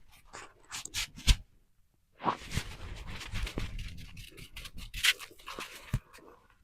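Footsteps in snow: irregular crunching and scraping with a few sharper knocks, the loudest of them about two seconds in and again near five seconds.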